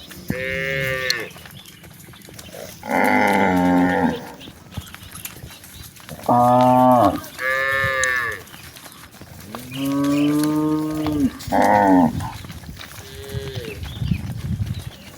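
Herd of cattle mooing: about seven separate calls of differing pitch from several cows, some long and drawn out, others short.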